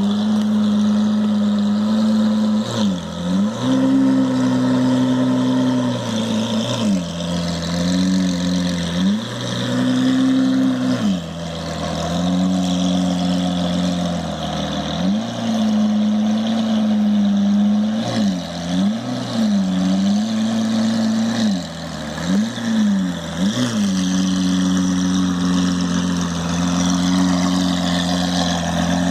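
Lamborghini Aventador's V12 through a Kreissieg aftermarket exhaust, running at low speed while the car backs up; the steady low exhaust note shifts pitch briefly about eight times as the engine speed changes.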